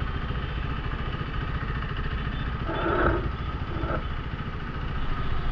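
KTM Duke 390's single-cylinder engine idling steadily, heard from on the bike, with a short pitched sound from nearby about three seconds in.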